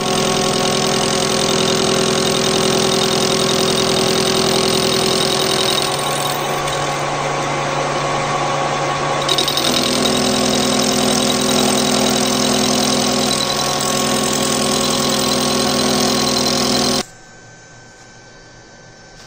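Homemade lathe's electric motor and drive running, a loud steady machine hum and whine. Its tone shifts about six seconds in and again near ten seconds, then it cuts off abruptly near the end.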